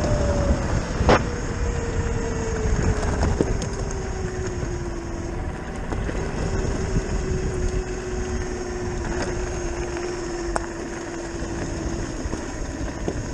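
Zero FX electric motorcycle's motor whine, falling slowly in pitch as the bike eases off, over rumbling wind and tyre noise from riding a dirt road. A few sharp clicks, the loudest about a second in.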